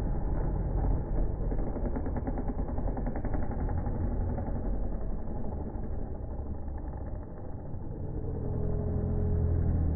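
Motocross bike engines running, dull and muffled, with rapid firing pulses in the first few seconds; about eight seconds in, a steadier held engine note comes in and runs to the end.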